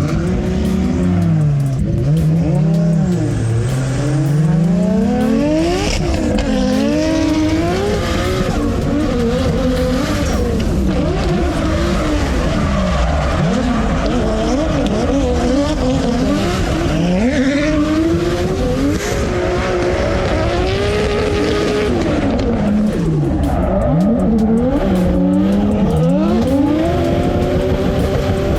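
Drift car engine heard from inside the cabin, revving up and down over and over with the throttle as the car is drifted, with the tyres squealing.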